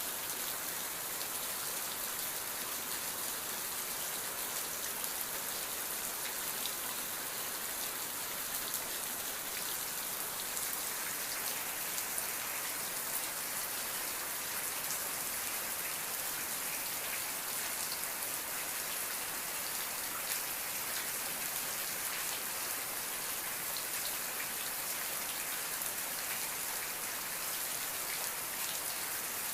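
Steady rain falling, with many small drops pattering on a surface and no thunder.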